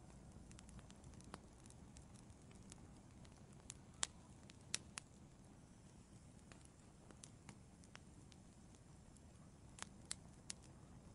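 Wood fire crackling in a fireplace: scattered sharp pops and snaps over a faint low rumble, the loudest pops about four and five seconds in and a few more near the end.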